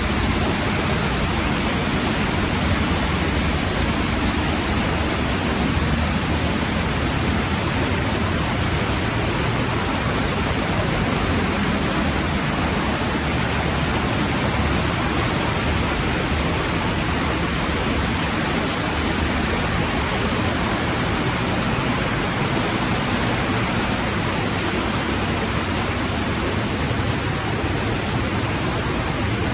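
A waterfall's steady rush of falling water, a loud, even noise that holds constant without a break.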